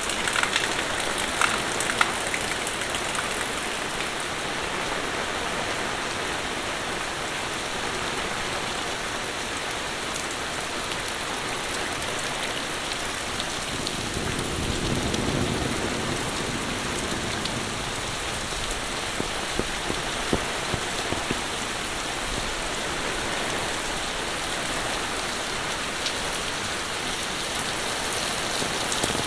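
Steady monsoon rain falling, a dense patter of drops on surfaces. About halfway through a low rumble swells for a few seconds and fades.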